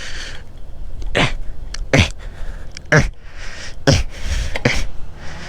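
Five sharp knocks or clunks, roughly one a second, over a steady low rumble, with a short hiss at the very start.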